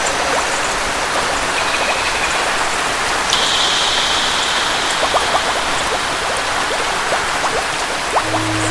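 Steady rain with scattered drops pattering, from a rainforest rain ambience. About a third of the way in a high tone is held for a couple of seconds, and near the end a low held instrument note comes in.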